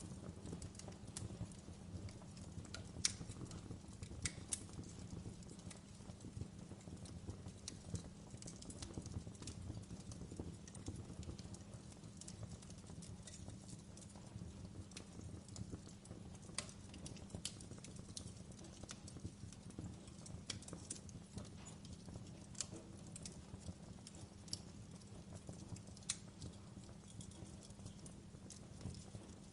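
Wood fire burning in a fireplace: irregular sharp crackles and pops over a low, steady rumble of the flames, with one louder pop about three seconds in.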